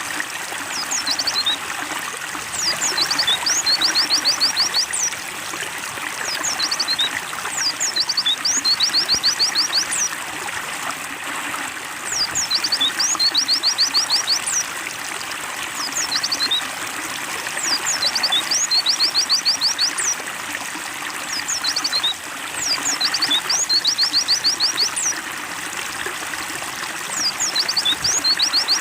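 Steady trickling water with a white-eye (pleci) singing over it: a short chirpy phrase followed by a fast high trill, repeating every five seconds or so. This is the water-therapy sound played to encourage a caged pleci to sing.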